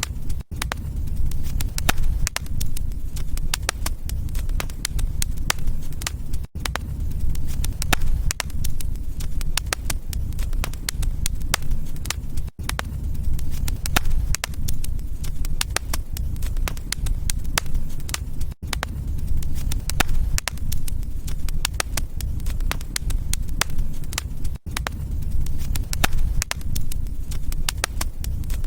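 Fireplace fire crackling: a steady low rumble of flames with many sharp pops and crackles. The sound drops out briefly about every six seconds.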